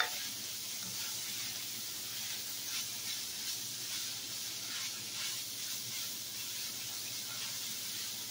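Ground beef frying in a skillet, a steady sizzle, with soft scrapes as a spatula stirs it. A short sharp knock right at the start.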